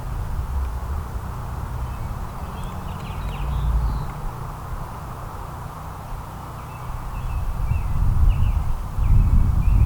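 Small songbirds chirping faintly in short calls over a low, uneven rumble that swells and is loudest near the end.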